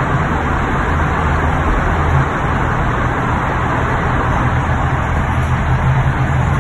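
BMW M3 E92's V8 engine running at steady revs, a low even drone with no revving.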